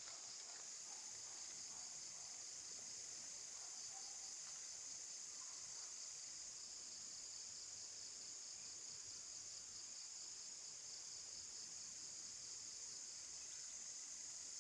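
Steady, high-pitched chorus of insects trilling continuously.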